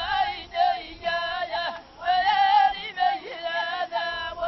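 A group of voices, led by high women's voices, singing an Ahidous chant together in long held phrases with wavering notes and short breaks between them.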